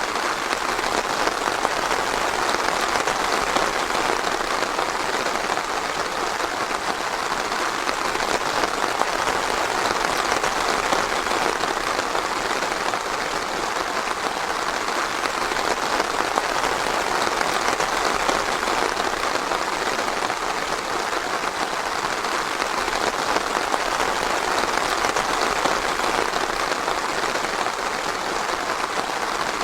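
Steady rain pattering densely on foliage and ground, an even continuous patter with no thunder.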